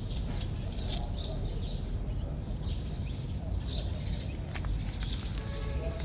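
Small birds chirping over and over in short high calls, over a steady low rumble.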